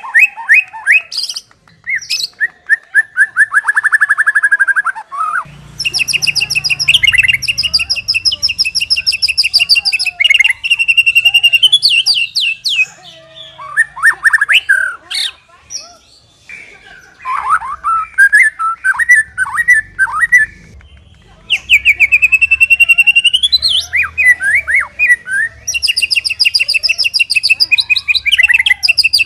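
White-rumped shama singing a loud, varied song: fast trills, rapid runs of repeated notes and clear whistled glides, in phrases broken by short pauses.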